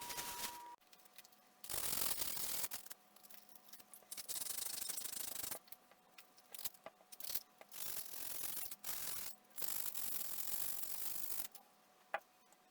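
Repeated bursts of scraping, each one to two seconds long with short pauses between, followed by a sharp click near the end.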